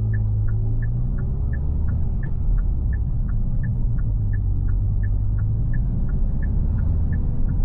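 Hyundai Lafesta N Line's turbocharged 1.5 T-GDi four-cylinder running steadily at low revs, a low even drone through the stage-1 exhaust. A light regular ticking, about three ticks a second, runs over it.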